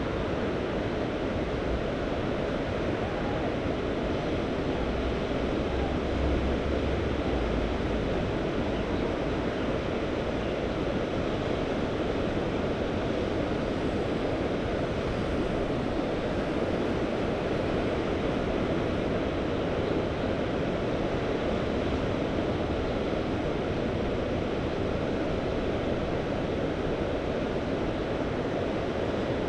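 Mediterranean sea surf washing steadily against the shore, an even rushing with no distinct breaks, and a brief low rumble of wind on the microphone about five to seven seconds in.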